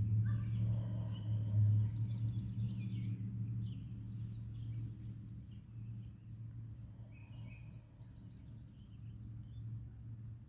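Outdoor ambience: birds chirping faintly and intermittently over a steady low hum that eases off after the first couple of seconds.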